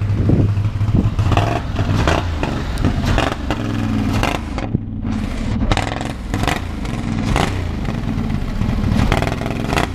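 Off-road buggy's engine running and revving up and down through its exhaust, with repeated sharp cracks.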